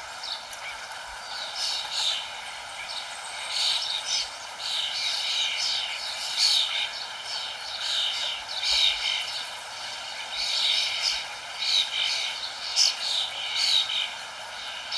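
Several songbirds chirping in quick, repeated high notes, over a steady hiss underneath.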